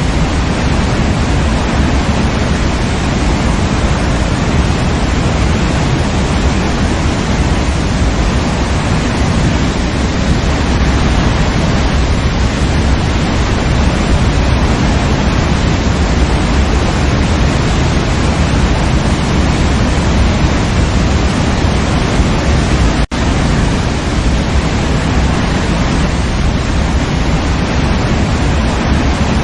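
Waterfall: a steady, loud rush of falling water, heaviest in the low end. About two-thirds of the way through it drops out for an instant.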